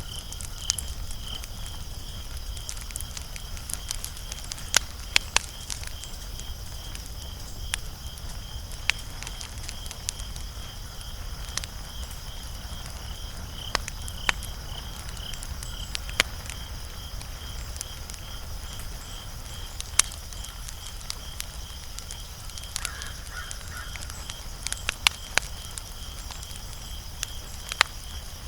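Wood fire crackling: sharp pops and snaps at irregular intervals, about twenty of them, over a steady low rumble of burning.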